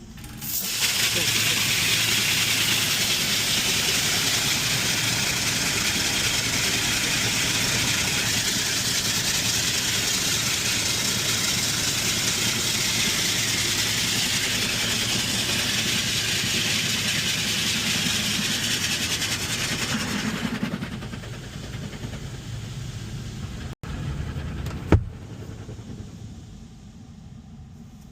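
High-pressure water jets of a touchless car wash spraying the car: a loud, steady hiss that starts abruptly and dies away about 21 seconds in. A single sharp click follows a few seconds later.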